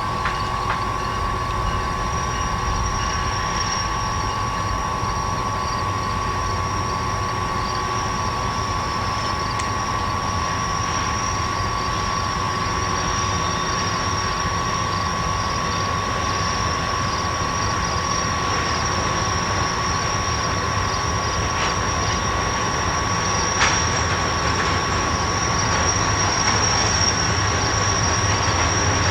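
Wisconsin Central freight train rolling by: a steady rumble with a constant high-pitched whine over it, getting a little louder near the end, and one sharp click late on.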